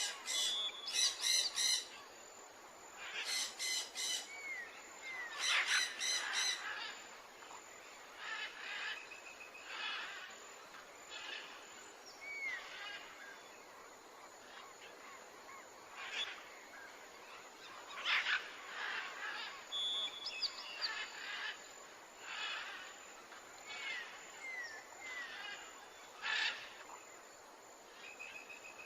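Birds calling and chirping in a nature-sound ambience: repeated short calls and chirps with little pitch glides, loudest in the first several seconds.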